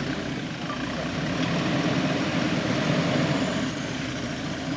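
Off-road 4x4 jeep's engine revving under load, growing louder through the middle and easing off near the end.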